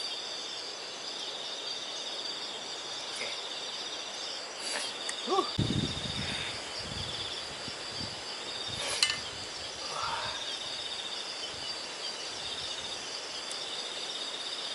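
Steady chorus of crickets trilling in a pulsing high pitch. A few sharp clicks and a short run of low knocks come through about a third of the way in.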